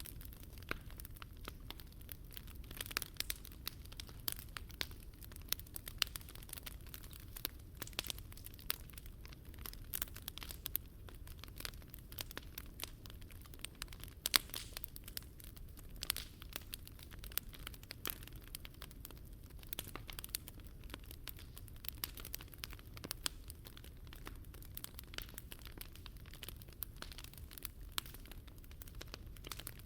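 Wood fire burning in a Picogrill fire stand, crackling steadily with many sharp pops and snaps, the loudest pop about halfway through.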